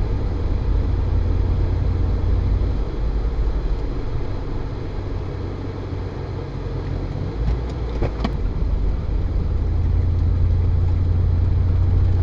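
Off-road car's engine running with a low rumble that eases in the middle and grows louder again near the end, with a single sharp knock about eight seconds in.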